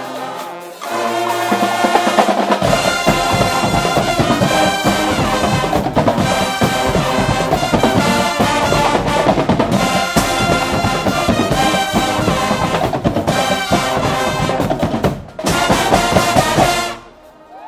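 Guggenmusik band playing loud, brassy carnival music on trumpets, trombones and drums. The full band comes in about a second in, with heavy drumming joining soon after. A brief break near the end is followed by a last loud burst that stops abruptly.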